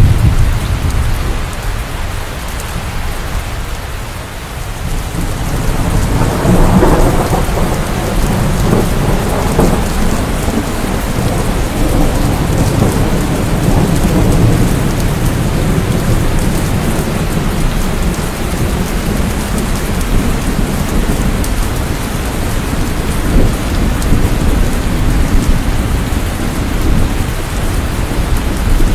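Steady heavy rain falling, with thunder rumbling low underneath; a roll of thunder swells up about six seconds in and rumbles on.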